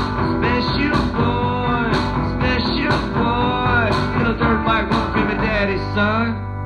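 Rock band playing: drums keeping a steady beat under guitar and a gliding melodic lead line. Near the end the drums stop and a chord rings on.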